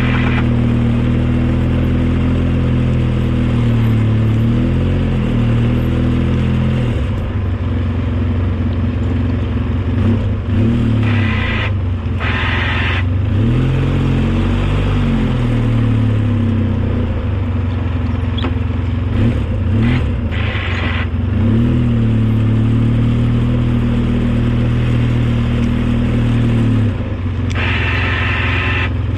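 Engine of an old snow-plowing vehicle running under changing throttle, its pitch rising and falling several times. A higher whine cuts in briefly a few times.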